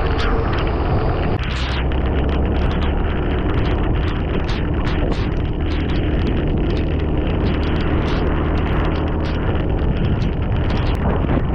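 Heavy rain pouring down, with many sharp drop hits close by over a dense hiss and a steady low rumble underneath.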